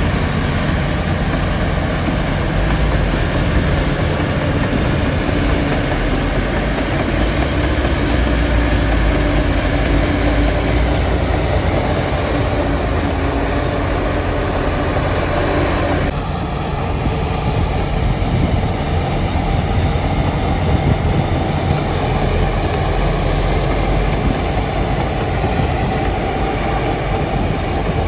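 Heavy diesel earthmoving machinery running steadily at work, a low engine note under a constant clatter. The sound changes abruptly a little past halfway.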